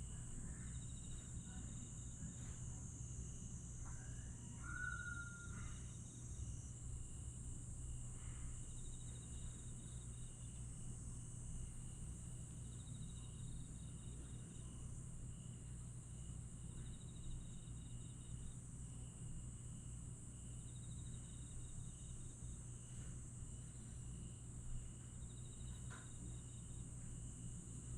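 Night chorus of crickets and other grass insects: a steady high shrill, with short trills repeating every few seconds, over a low steady hum. A single brief chirp sounds about five seconds in.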